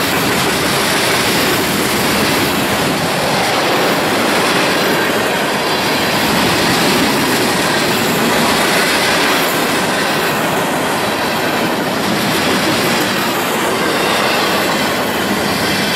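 Freight cars rolling past at close range, steel wheels running on the rails with a loud, steady rumble and rattle.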